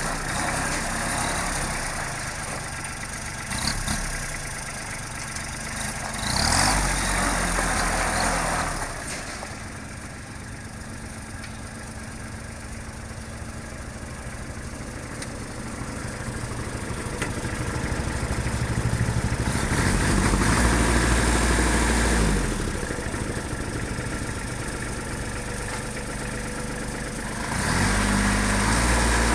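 Kubota L2440 tractor's diesel engine idling, revved up three times: about six seconds in, around twenty seconds in, and again near the end.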